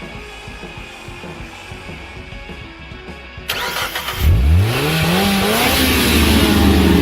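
Soft background music, then about three and a half seconds in a sudden burst of noise and an engine revving up, its pitch rising quickly before it settles into loud, steady running.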